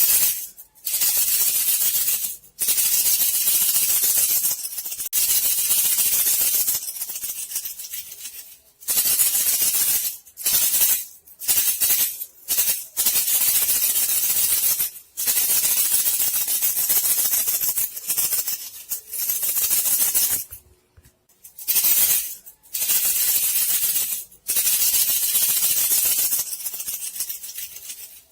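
Shaking, rattling lure sound used to call bandicoot rats: repeated bursts of a dry, hissing rattle, each lasting one to three seconds with short breaks between.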